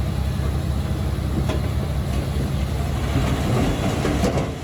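Diesel engine of heavy earthmoving equipment running steadily under load, with a couple of sharp knocks.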